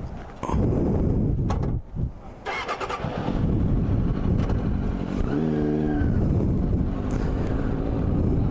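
Suzuki Katana 600 (GSX600F) inline-four with a debaffled exhaust, running loud under way with wind noise on the helmet microphone. The engine note rises about half a second in, dips briefly near two seconds, then holds loud.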